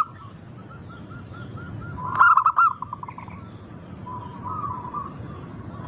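Zebra doves (perkutut) cooing: a soft run of short coos, a loud burst of rapid staccato coos about two seconds in, then more soft coos.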